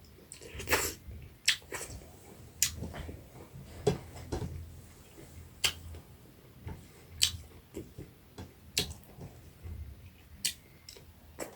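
Close-up eating sounds: wet lip smacks and mouth clicks while chewing fish and rice, about one sharp smack every second or so.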